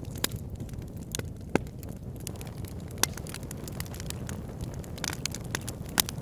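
Wood fire burning in a fireplace: a steady low rumble of flame with irregular sharp crackles and pops, the loudest pops about a second and a half in, around three seconds in and near the end.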